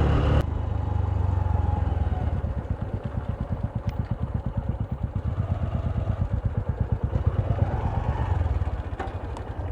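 Honda SP 125 motorcycle's single-cylinder engine running under way, with a heavy low rumble of wind and road; from about two and a half seconds in its exhaust settles into an even, quick beat that fades near the end.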